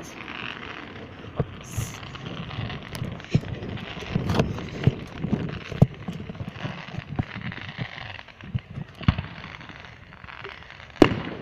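Fireworks going off: a series of irregularly spaced bangs and pops, the loudest one near the end.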